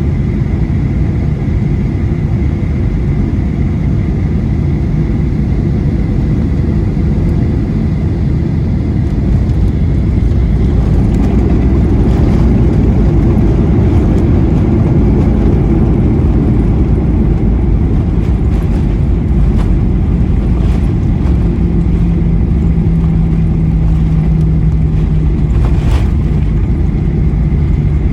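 Cabin noise inside a Boeing 737-800 during its landing: a steady roar of its CFM56-7B engines and airflow, growing louder about ten seconds in, with a few brief knocks later on.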